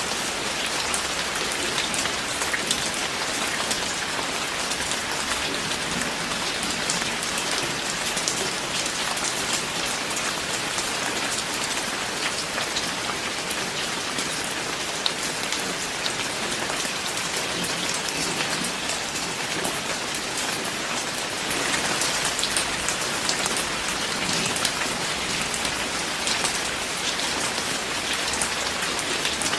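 Steady rain falling on a surface, a constant hiss dotted with the ticks of individual drops, growing slightly heavier about two-thirds of the way through.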